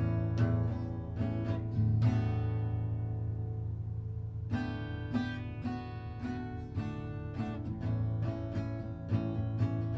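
Acoustic guitar strummed in chords. About two seconds in, one chord is left to ring and fade for a couple of seconds, then the strumming picks up again.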